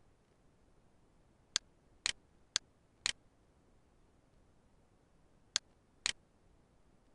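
Computer mouse button clicking: six sharp clicks in three pairs, the two clicks of each pair about half a second apart, over faint room tone.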